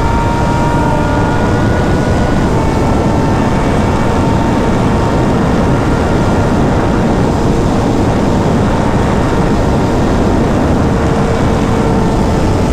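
Sport bike ridden at steady speed on a highway: heavy wind rush buffeting the microphone over the engine's held, slightly wavering note.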